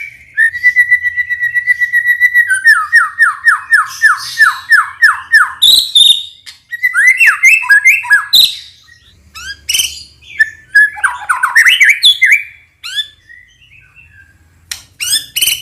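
White-rumped shama (murai batu) singing a loud, varied whistled song. A steady trill gives way to a run of about ten quick falling notes, then chattering phrases come in bursts with short pauses between them.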